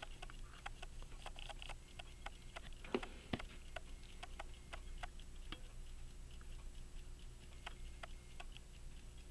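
Key-wound 18-size Illinois Springfield pocket watch movement ticking faintly and quickly, about four to five ticks a second, with a few louder sharp clicks of small tools handling the watch.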